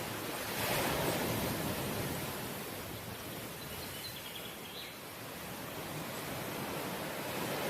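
Ocean surf washing onto the shore in a steady wash. It swells about a second in, eases off midway and builds again near the end.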